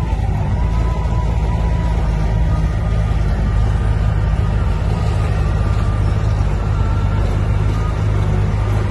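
Diesel engine of heavy earthmoving machinery running steadily with a continuous low rumble.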